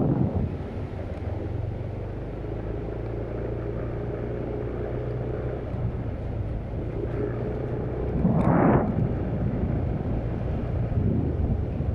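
Motorcycle engine running steadily with a low hum, and a brief loud rushing burst about eight and a half seconds in.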